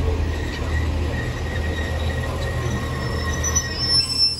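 Class 150 and Class 143 Pacer diesel multiple units at the platform, their diesel engines running with a steady low hum. A high, thin squeal, typical of wheels or brakes, comes in during the last second.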